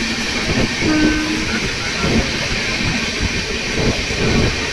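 Passenger train running, a steady rumble and hiss of wheels on the rails, with a brief low steady tone about a second in.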